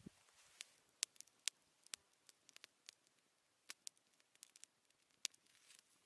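Wood campfire crackling: irregular sharp pops and snaps from the burning wood over a quiet background.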